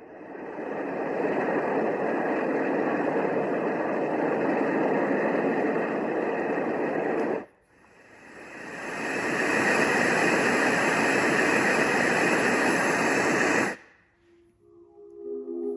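Momcozy baby sound machine switching through its soothing noise sounds. A steady rushing noise fades in and runs about six seconds, then cuts off. A brighter, hissier noise fades in, runs about five seconds and cuts off. Steady ringing tones begin near the end.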